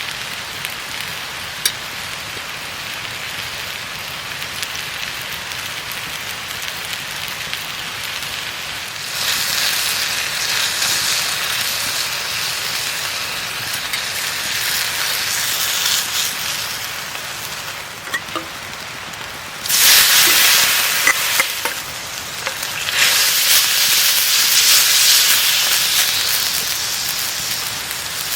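Food sizzling in a frying pan over a campfire. The steady hiss grows louder about a third of the way in, then swells sharply twice in the second half as the pan heats up or food is moved or added.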